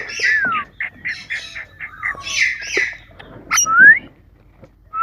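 Pet parrot calling: a run of short squawks and chirps with sliding whistled notes, one rising whistle near the end.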